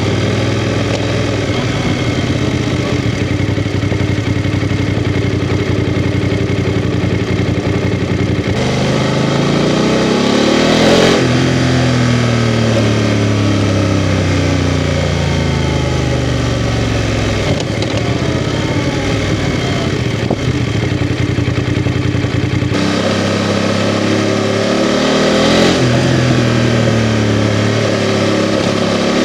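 BMW F 750 GS parallel-twin engine ticking over steadily, then pulling away with the revs rising and falling through the gears. It drops back to a steady idle for a few seconds before pulling away again near the end.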